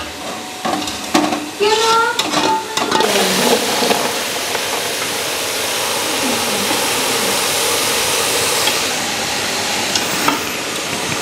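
Spiced masala frying in a metal pot, scraped and stirred with a steel ladle. About three seconds in a loud, steady sizzle starts as raw cauliflower, potato and peas go into the hot masala.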